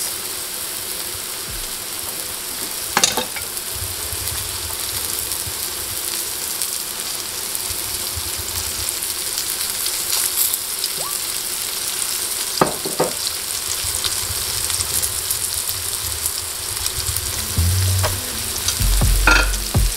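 Curry-battered mushrooms sizzling steadily as they fry in avocado oil in a nonstick skillet, with a few brief knocks.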